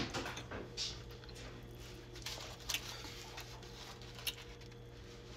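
Spaghetti and chicken being chewed close to the microphone: soft, wet mouth smacks and squishy clicks, with a few sharper clicks in between.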